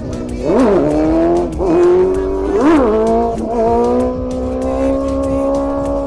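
Car engine revving in three quick throttle blips, its pitch shooting up and dropping back each time, then held at steady high revs that creep slowly higher.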